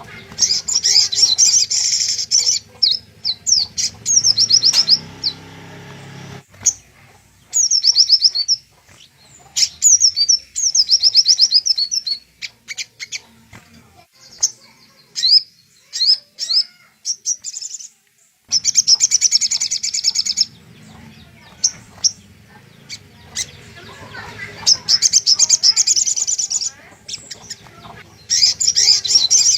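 Sogok ontong (spiderhunter) singing in repeated high, rapid chirping trills, each phrase a second or two long with short pauses between, over a faint low background hum.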